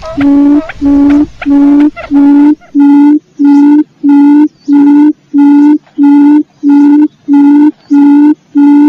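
Quail lure-call recording: a loud, even series of short, low hoots, about two a second, each on one steady pitch.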